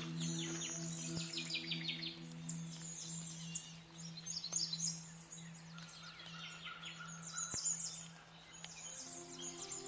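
Songbirds chirping in quick runs of high notes, over a steady low hum.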